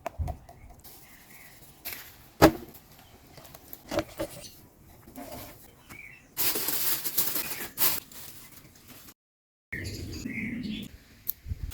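Birds chirping, with a single sharp knock about two and a half seconds in and a stretch of steady hissing for a second or two past the middle.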